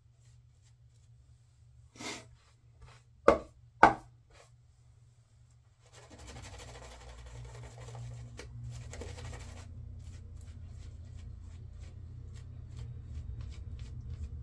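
Two sharp knocks about three seconds in, like hard items set down on a counter, then from about six seconds in a steady rushing noise with small clicks.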